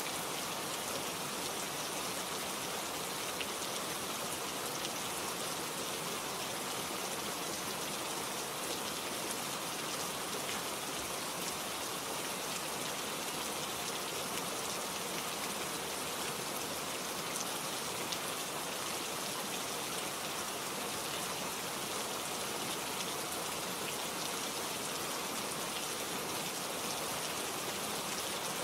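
Steady rain falling, with many fine drops pattering on leaves.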